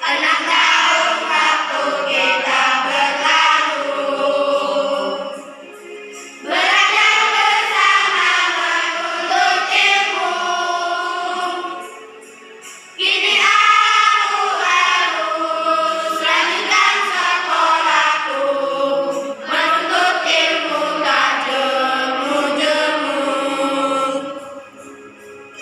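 Children's choir singing a song in long phrases over a quieter instrumental accompaniment, with two short breaks between phrases where only the accompaniment is heard.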